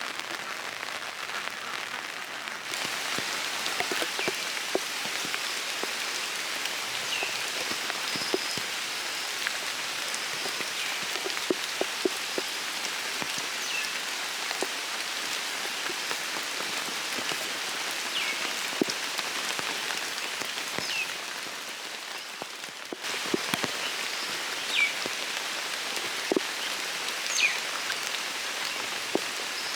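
Steady rain falling, with individual drops tapping close by and a few brief high chirps scattered through.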